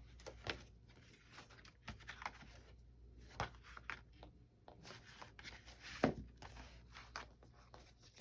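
Paper and light cardstock rustling and crackling as paper doll books and cut-out pieces are handled, with scattered sharp taps. The loudest crackle comes about six seconds in.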